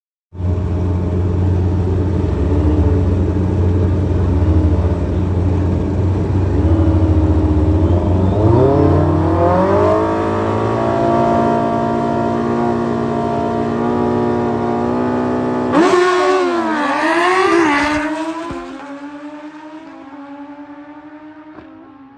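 Drag-racing motorcycle engine running steadily at a low pitch, then climbing in pitch and holding there; the pitch wavers up and down briefly and the sound fades away before cutting off suddenly.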